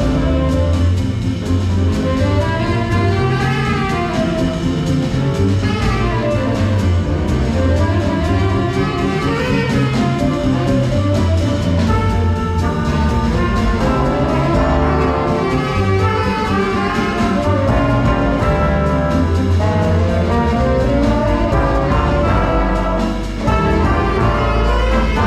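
Big band playing jazz, with the brass section of trumpets and trombones carrying the melody over a steady bass and drums.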